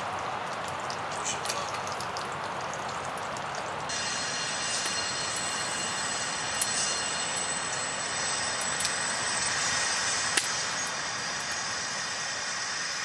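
Wood fire crackling, with sharp pops scattered over a steady hiss. About four seconds in, a brighter steady hiss with faint high tones joins it.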